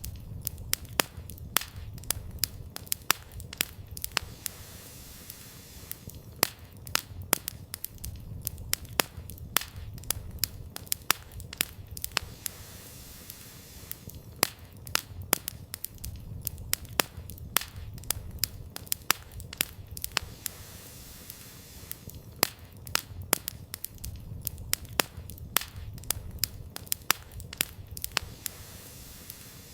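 Campfire firewood burning and crackling, with frequent sharp pops and snaps at an irregular pace over a low rumble.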